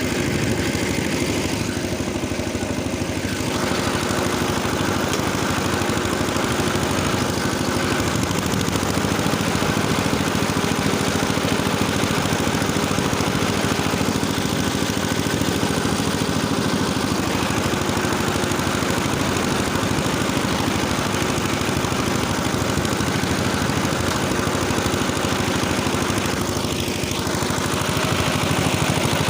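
Engine of a rotary tiller rig running steadily while the tiller works the soil.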